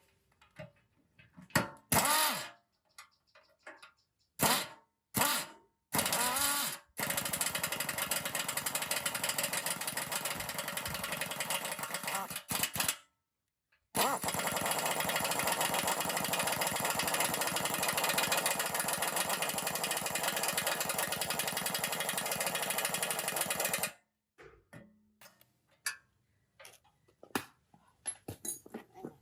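Handheld power tool run in several short bursts, then in two long steady runs with a fast rattling buzz.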